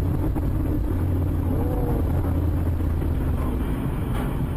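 A car's engine and road noise heard from inside the cabin through a dashcam, a steady low drone while driving.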